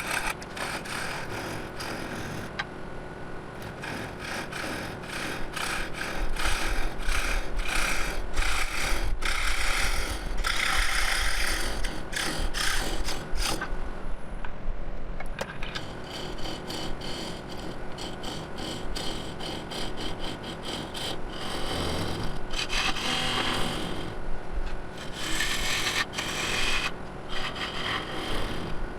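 Hand saw trimming an installed wooden plug off to size: repeated back-and-forth strokes of the blade rasping through the wood, in runs with short pauses between them.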